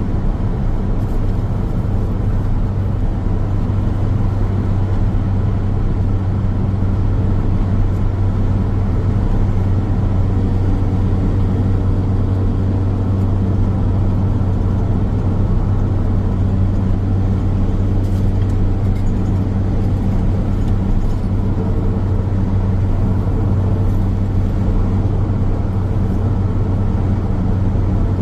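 Car driving at steady speed on a road, a constant low drone of engine and tyre noise heard from inside the car.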